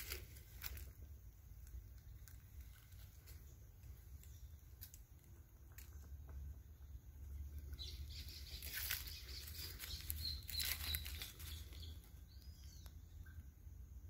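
Small birds fluttering and rustling, with light scattered taps, a few short high chirps in the second half and one brief arched whistle near the end, over a low steady rumble.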